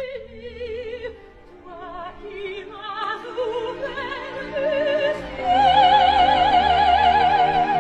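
Operatic singing with a wide, wobbling vibrato: a run of short notes climbing in pitch, then one long held note, the loudest part, from about halfway through.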